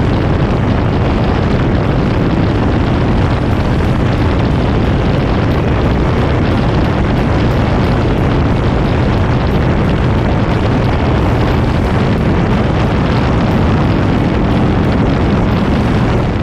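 Motorcycle under way at a steady speed: engine and exhaust running under heavy wind rush on the microphone.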